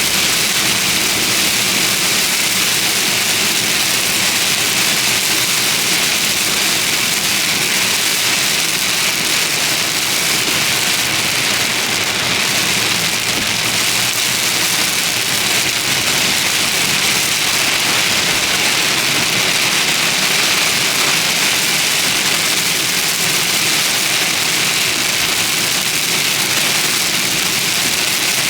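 Heavy thunderstorm rain pelting a car as it drives, a loud, steady hiss with some road and engine noise beneath.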